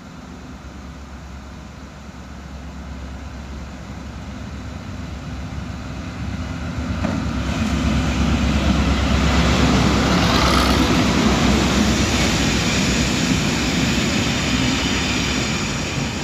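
A GBRf Class 73/9 electro-diesel locomotive approaching and passing close by on its diesel engine, hauling test coaches: a low engine drone and rail rumble that grow steadily louder, peak about eight to eleven seconds in as the locomotive passes, then ease a little as the coaches roll past.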